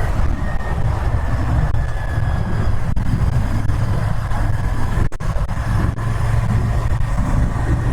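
Royal Enfield Interceptor 650's parallel-twin engine and exhaust running steadily while the motorcycle is ridden along the road, with a brief dropout about five seconds in.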